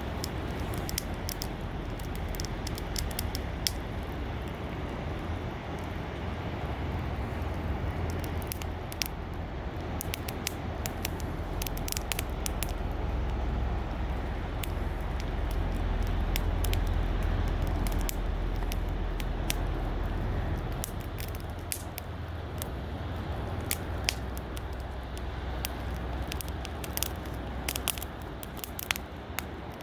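Campfire crackling, with frequent sharp irregular pops and snaps over a steady low rumble.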